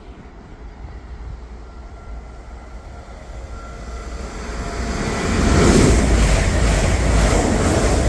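A train approaching along the line, its rumble growing steadily louder until it is passing close and loud from about five seconds in.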